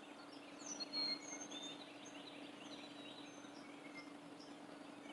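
Faint outdoor ambience: scattered short, high bird chirps, one slightly louder call about a second in, over a steady low hum.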